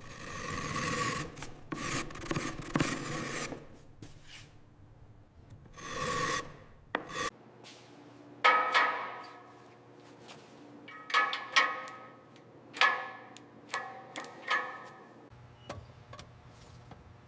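Hand polishing: rubbing strokes on a hard surface in irregular bouts with short pauses, several strokes carrying a squeak.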